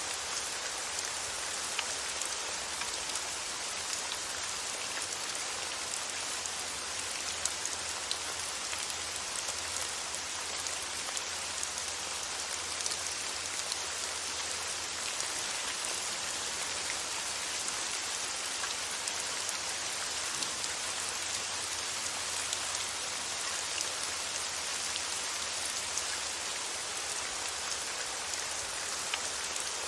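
Steady rain falling on a surface, an even hiss dotted with tiny drop ticks.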